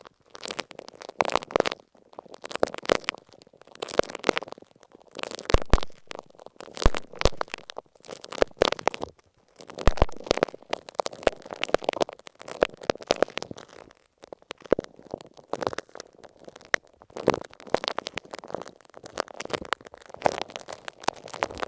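A spiky ball (uni ball) rubbed and pressed against masking tape wrapped on an earphone microphone, very close to the mic. It makes scratchy, crackling strokes in bursts about every second or so, with short pauses between them.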